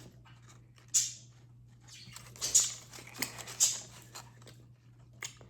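Scratchy rustling and crinkling of toy packaging being handled, in several short bursts.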